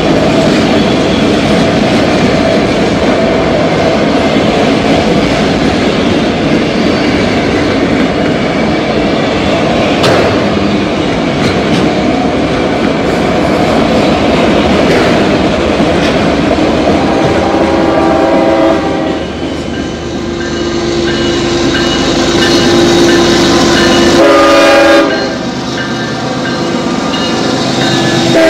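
Freight cars of a CSX manifest train rolling past with a steady rumble and clatter of wheels on the rails. About two-thirds through, a diesel locomotive's horn blows in two long blasts.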